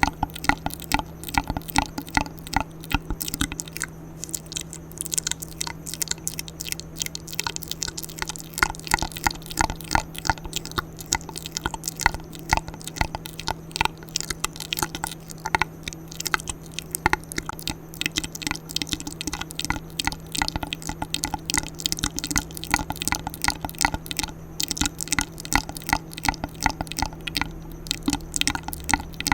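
Close-miked ASMR mouth sounds: a dense, irregular stream of quick wet clicks and smacks.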